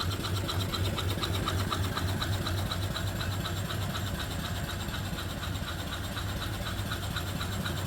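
Small single-cylinder antique-reproduction steam engine (3-inch bore, 4-inch stroke) running steadily under steam from its boiler, a very quiet, rapid, even rhythm of its working parts.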